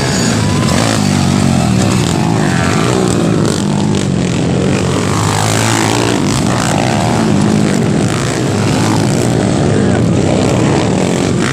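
Underbone motorcycle engines revving hard and continuously, several at once, their pitch rising and falling as the riders work the throttle.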